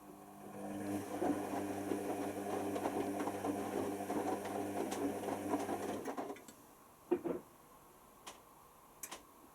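Hoover Nextra HNWL7146 washer dryer drum turning during the wash: a steady motor hum with the load tumbling, which stops about six seconds in as the drum pauses. A short knock comes about a second later.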